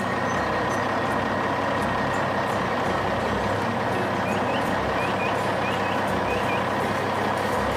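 Heavy truck engine running steadily, with a constant whine over the engine noise. A few faint short chirps come over it in the middle.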